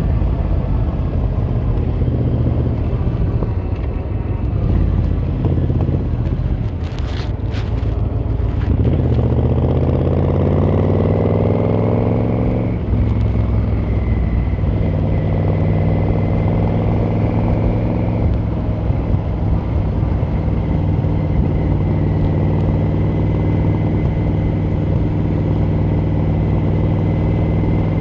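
Yamaha XVZ1300 Royal Star's V4 engine and exhaust on the move. The engine climbs in revs for a few seconds about a third of the way in, drops sharply at a gear change, then runs on at a steady cruise. There are a couple of brief sharp noises shortly before the climb.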